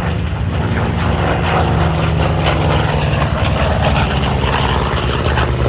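Propeller-driven warbird's big piston engine running loud and steady as the aircraft flies by.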